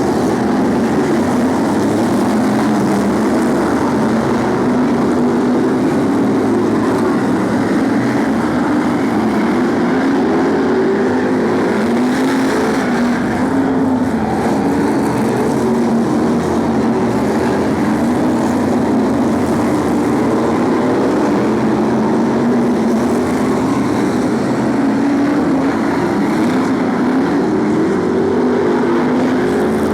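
BriSCA F1 stock cars' V8 engines running flat out in a race: a continuous dense sound of several engines together, their pitch rising and falling.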